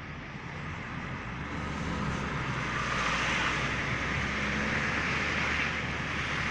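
A passing vehicle's noise swelling louder over a few seconds, then easing slightly.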